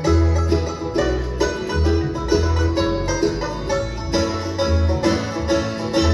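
Live bluegrass band, with banjo, mandolin, guitar and bass, playing the instrumental bars that close out a song after the last sung line. Quick plucked banjo and mandolin notes run over steady bass notes.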